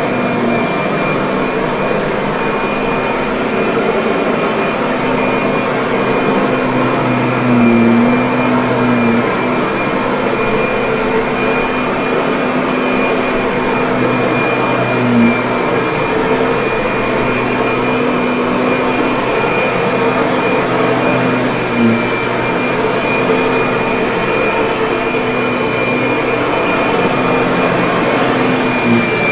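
Kirby vacuum cleaner running steadily: a constant motor whine with a thin high tone over a low hum. It swells briefly a few times, about every seven seconds.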